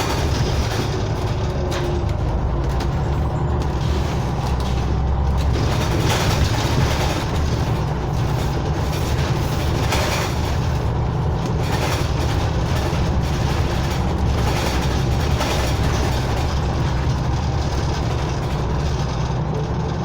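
Scania OmniCity bus under way, heard from inside the passenger cabin: a steady low engine and road rumble with occasional brief knocks and rattles.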